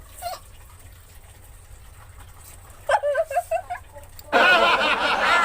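Women's vocal reactions to eating sour lemons: a short strained squeal about three seconds in, then loud, wavering squealing laughter from about four seconds in.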